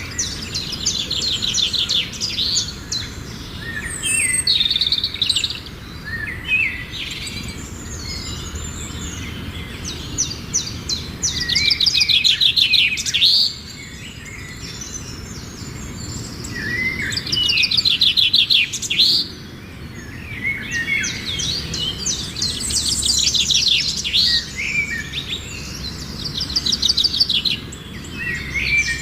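Songbirds singing: rapid trilled phrases and chirps, each lasting a second or two and repeated every few seconds, over a faint steady low background hum.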